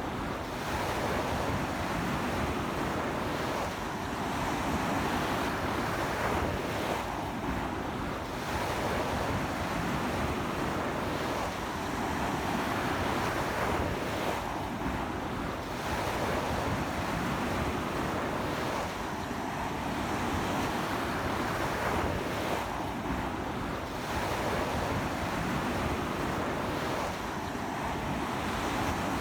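Ocean waves breaking and washing onto a beach in a strong sea wind, a steady rushing surf that swells and eases every few seconds, with wind buffeting the microphone.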